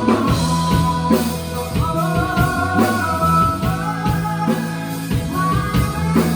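Rock band playing live: drum kit, bass and electric guitar under long sung notes, with a steady drum beat.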